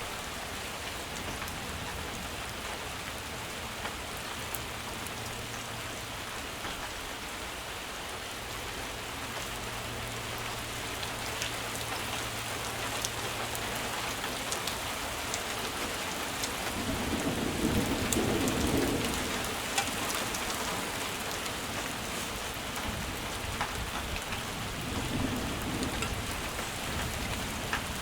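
Heavy rain falling steadily. A low rumble swells for a couple of seconds about two-thirds of the way through, and again briefly near the end.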